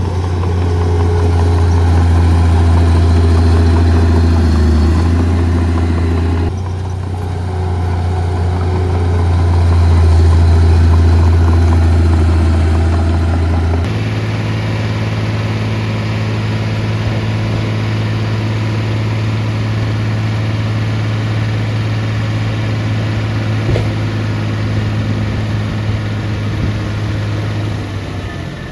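Heavy diesel engine of earthmoving machinery, such as a bulldozer or dump truck, running steadily at constant speed with a deep drone. The engine note shifts abruptly twice, about a third and halfway through.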